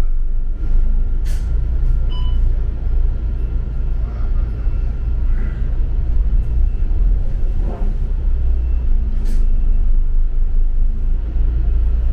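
Double-decker city bus under way: a steady low rumble of engine and road noise, with two brief sharp sounds about a second in and again about nine seconds in.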